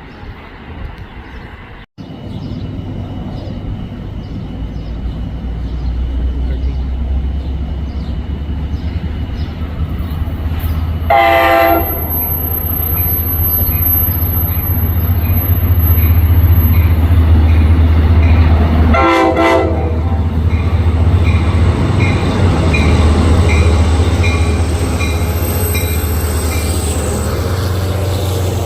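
Diesel passenger train on the NJ Transit Main Line approaching and passing through the station, its engine rumble building up and staying loud. The locomotive's air horn sounds twice: a blast of about a second, then a shorter one about eight seconds later.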